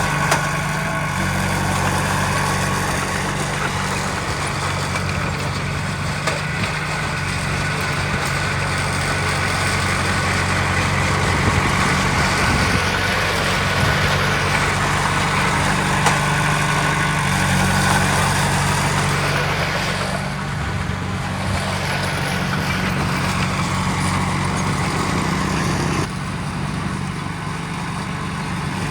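The diesel engine of a heavy earthmoving machine running steadily with a low, even drone. It drops a little in level about three seconds before the end.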